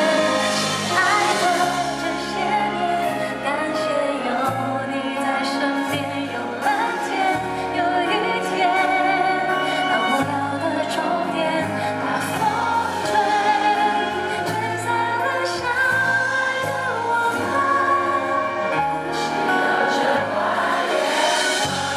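A song performed live: singing with vibrato over a band, with a stepping bass line under it.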